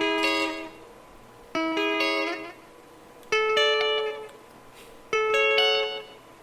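Instrumental music: a guitar plays the same short plucked phrase four times, one about every 1.7 seconds, with brief gaps between.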